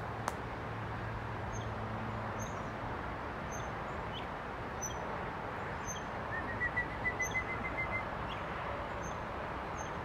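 Wild birds singing: a short high chirp repeated about once a second, and about six and a half seconds in a quick run of about a dozen notes that rises slightly and then holds, over a steady background hiss.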